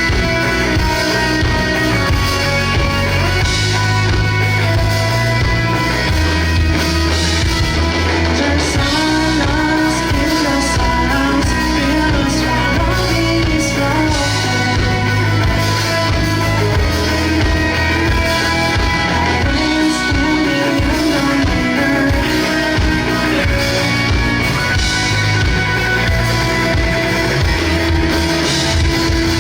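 Live rock band playing, with electric guitar, bass and drums and some singing.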